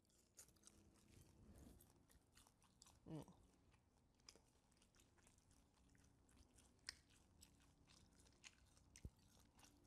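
Faint close-up chewing of a bite of tri-tip steak: soft, scattered wet mouth clicks, with one brief louder mouth sound about three seconds in.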